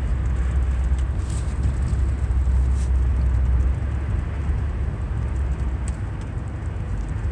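Steady low rumble of a car driving, engine and tyre noise heard from inside the cabin, with a few faint ticks.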